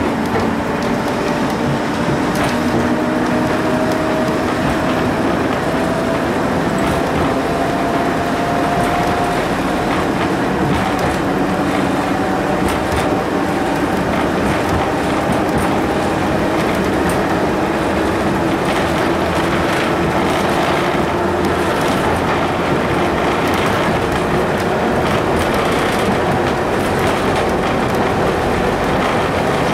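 A train running steadily, its noise holding a hum that slowly rises in pitch.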